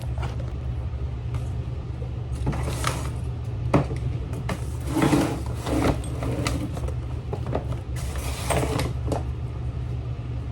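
A bed being moved across a bedroom: scattered knocks and short scraping rushes a few times, over a steady low hum.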